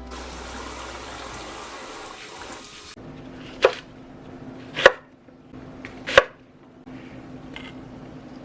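Water running from a kitchen tap, shut off abruptly about three seconds in. Then three sharp knocks, roughly a second and a quarter apart, over a steady low hum.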